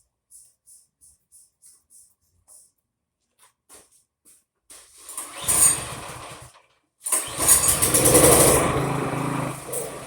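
PowerMate tiller's small engine cranked over after a few faint clicks. It catches briefly and dies, then on the next try starts and keeps running, settling into a steady run.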